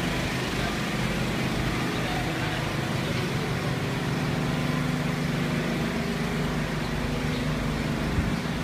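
Steady low machine drone, a constant hum with a few steady pitches over a background hiss that does not change.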